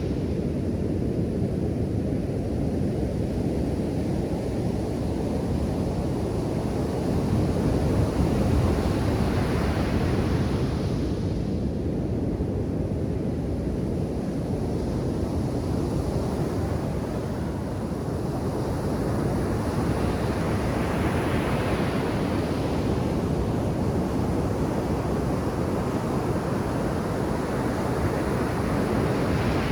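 Ocean surf breaking on a sandy beach: a continuous low rumble of waves, with a louder wash of a breaking wave swelling up about every ten seconds.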